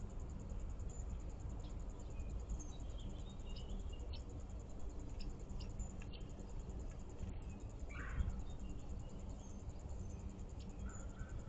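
Small birds giving scattered short, high chirps over a steady low background rumble. One louder call comes about eight seconds in.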